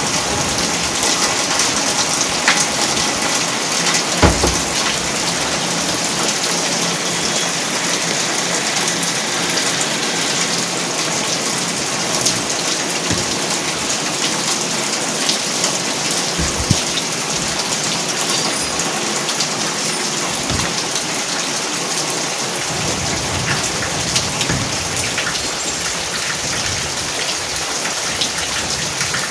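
Steady rain falling and splashing on surfaces, a dense even hiss dotted with sharp individual drop hits and a few dull knocks. A low rumble joins in during the last several seconds.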